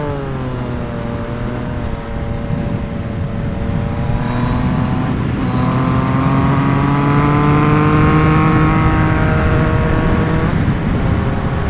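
Yamaha MT-09 three-cylinder engine through an Akrapovic full exhaust, running hard under acceleration. The engine note drops at the start, then climbs steadily and falls away sharply near the end at a gear change.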